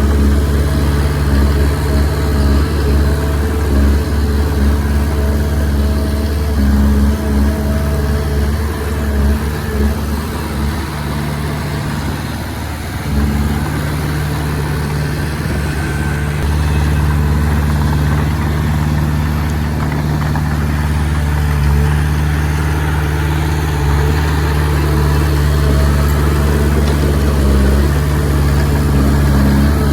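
Diesel engine of a Komatsu D20P small bulldozer running steadily as it pushes soil. It eases off for a few seconds near the middle, then picks up again and holds steady.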